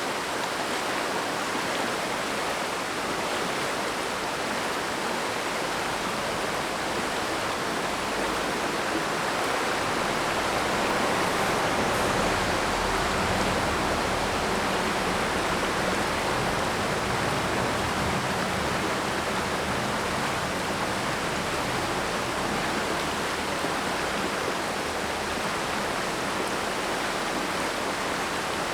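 Mountain stream rushing over rocks in a steady, even wash of water noise, a little louder in the middle.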